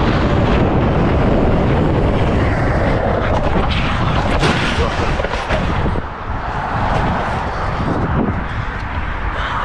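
Loud, steady vehicle driving rumble picked up by a dashcam microphone, with a few short knocks.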